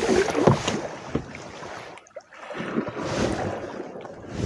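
Water splashing and sloshing around a canoe on open water, with a brief lull about two seconds in.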